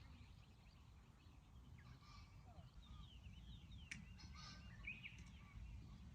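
Faint birdsong outdoors: several small birds chirping in short, quick calls over a low, steady background rumble, with one sharp click about four seconds in.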